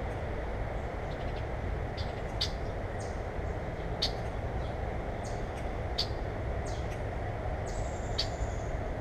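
Small birds chirping: short sharp chirps every second or two and a few thin high calls, one of them drawn out near the end, over a steady low rumble.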